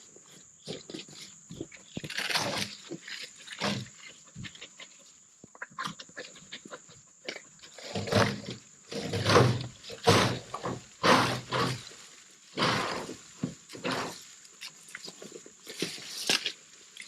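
A Red Heeler dog growling in repeated short, low bursts, loudest in the middle of the stretch.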